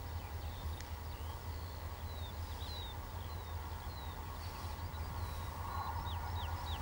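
Distant Bulldog diesel locomotive hauling an empty ballast train, a low steady rumble that grows slightly louder toward the end as it approaches. Birds chirp over it in short, quick calls.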